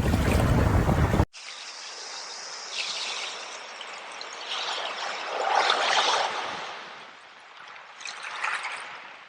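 Loud surf and wind noise cuts off abruptly about a second in, giving way to water trickling and pouring, which swells three times.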